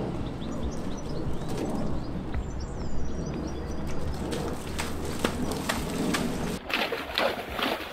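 Wild birds calling, a pigeon cooing among them, over a steady low rumble. Near the end, a run of sharp knocks as the pony's hooves step through the mud and water at the stream's edge.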